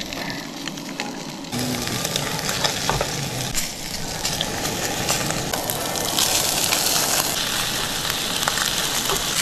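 Food frying in habanero butter in a hot pan, sizzling; the sizzle picks up about a second and a half in and grows louder about six seconds in.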